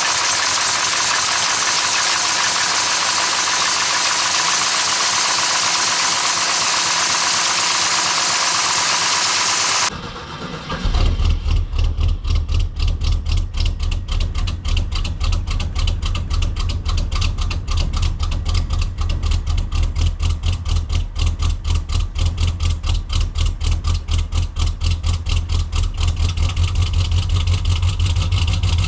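A steady, loud rushing noise for about the first ten seconds cuts off abruptly. It gives way to an S10's swapped-in 350 V8 idling with a low, lumpy, pulsing beat; the idle is a bit rough because the engine has not been fully tuned.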